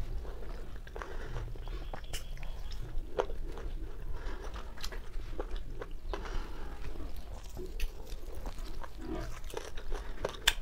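A person chewing and biting roasted chicken: irregular, sharp mouth clicks and crunches.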